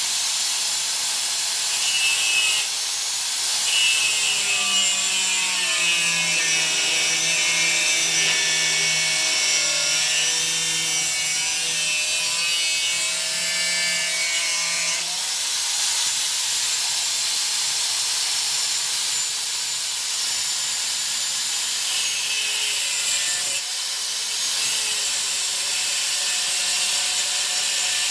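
A power tool working on steel, a steady hiss with a motor whine that shifts in pitch as the load changes.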